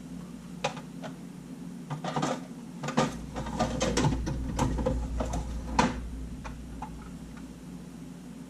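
Irregular clicks and light rattles of small hard camera parts being handled while rummaging for a spare Sony A7 top plate, thickest in the middle and easing off after about six seconds, over a steady low hum.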